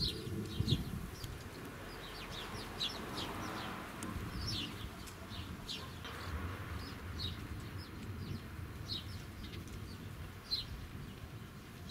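Small birds chirping over and over in short, high, falling notes, with wind gusting on the microphone and in the trees, strongest at the start.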